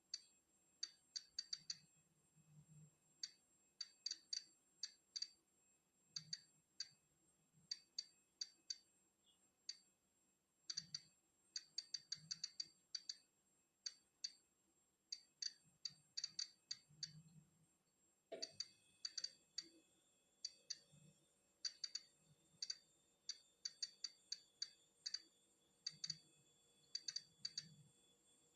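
Polon EKO-C digital Geiger counter clicking at random, irregular intervals, a few clicks a second and sometimes in quick clusters: each click is a detected particle of natural background radiation.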